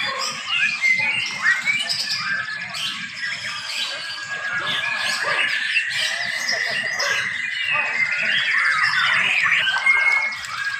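Several white-rumped shamas (murai batu) singing at once in competition: a dense, overlapping chorus of whistles, chirps and trills. From about four seconds in, one long wavering note is held for around four seconds.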